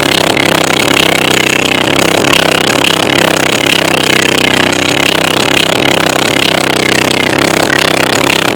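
Kicker L7 15-inch subwoofers in a truck playing loud bass-heavy music, heard as a dense, steady, rattly roar.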